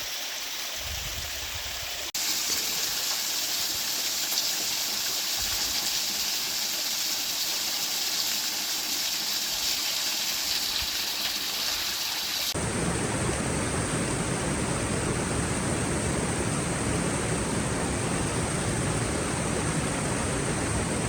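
Rushing stream water, a steady wash of noise. It changes abruptly about two seconds in and again about twelve seconds in, the last part fuller and deeper.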